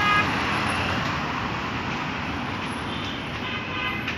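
Steady hum of road traffic, with a brief pitched sound right at the start.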